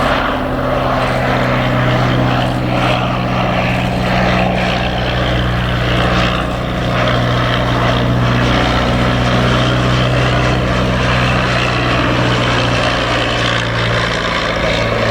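The V8 piston engine and propeller of a de Havilland DH-51 biplane running steadily, a loud even drone at an almost constant pitch.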